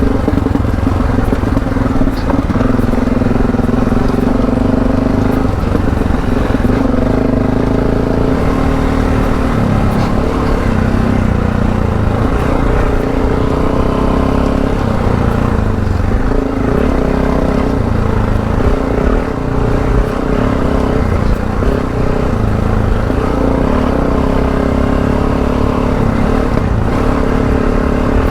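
Adventure motorcycle's parallel-twin engine running under way off-road, its pitch rising and falling a little with the throttle.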